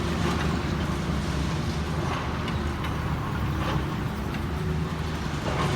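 Excavator diesel engine running steadily, with a few faint knocks over the drone.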